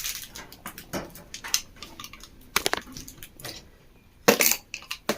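Irregular light clicks, taps and knocks from handling ceiling fan parts and test wiring on a bench, with two louder short rasping noises about two and a half and four and a half seconds in.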